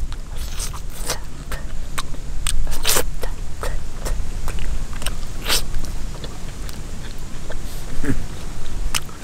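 A man chewing meat close to the microphone, with irregular wet smacks and clicks of the mouth scattered through, over a steady low rumble.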